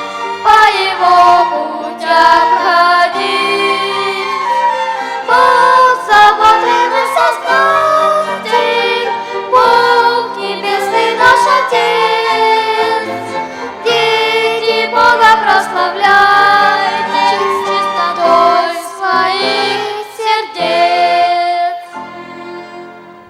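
Children's choir singing a hymn with violin and wind orchestra accompaniment. The music dies away near the end.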